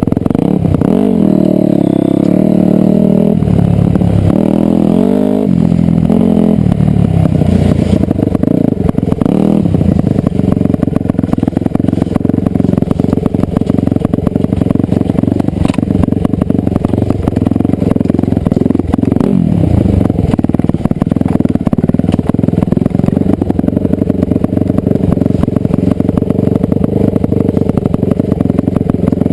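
Dirt bike engine running under load, its revs rising and falling several times in the first few seconds, then holding steadier.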